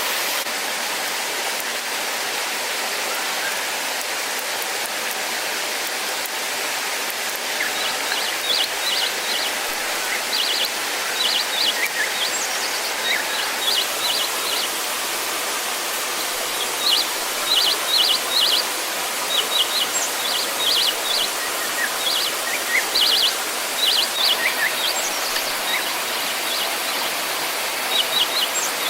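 Steady rush of water, as from a waterfall or stream. From about a third of the way in, a small bird chirps in repeated quick bursts of a few high notes.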